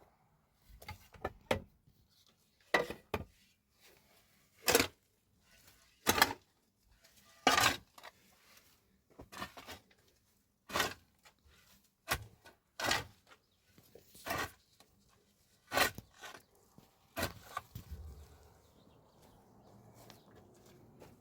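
A tool striking something in steady, separate blows, about one every second and a half, a dozen or so in all.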